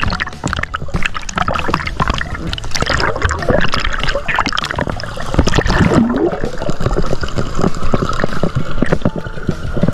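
Water splashing and sloshing in irregular, close-up bursts.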